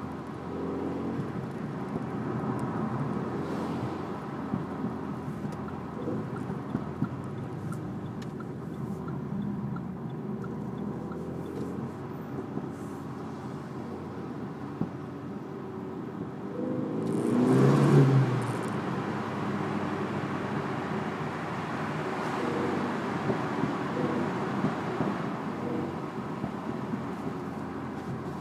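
Renault Mégane III RS 250's turbocharged four-cylinder engine and exhaust while driving, pitch rising and falling with the revs. About two-thirds of the way through it swells to a loud, brief peak, then settles back.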